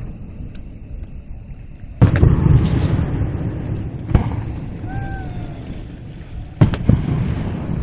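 Fireworks shells bursting overhead: a loud boom about two seconds in that rolls on with a rumble and crackle, another sharp bang around four seconds, and two sharp bangs close together near the end.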